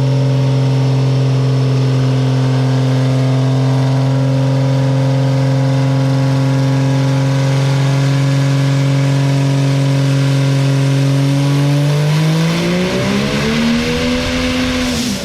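Cummins diesel engine in a drag truck running at a steady speed, then revving up about twelve seconds in and holding high near the end.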